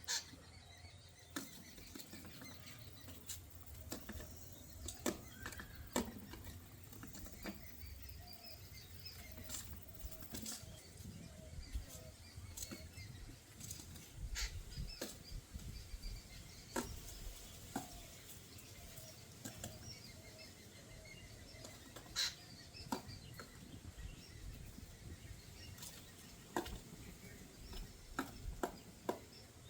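Birds moving about and flapping their wings, with many scattered sharp taps and clicks and faint chirps.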